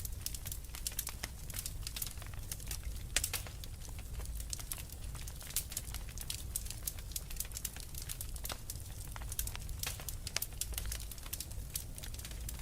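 Wood fire crackling in a fireplace: a dense run of irregular snaps and pops, some louder than others, over a low steady rumble of burning.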